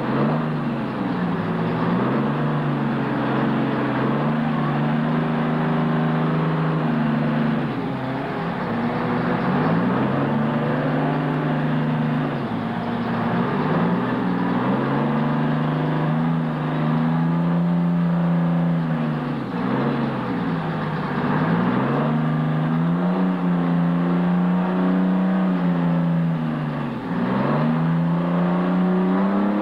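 Mud-bogging truck engine running hard under load, its revs dropping sharply and climbing back several times, every few seconds.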